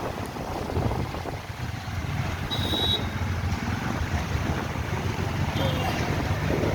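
Steady low rumble of a moving vehicle with road and wind noise. A brief high-pitched tone sounds about two and a half seconds in.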